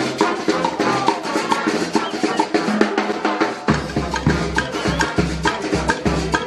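Murga band music, a fast beat on drums and percussion; a heavy bass line comes in just over halfway through.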